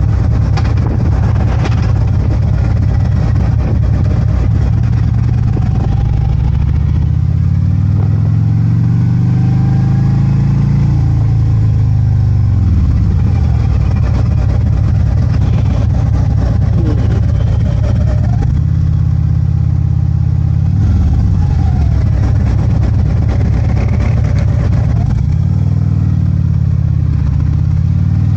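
Harley-Davidson Ultra Limited's V-twin engine running under way, its pitch climbing as it accelerates and dropping sharply at each of several gear shifts.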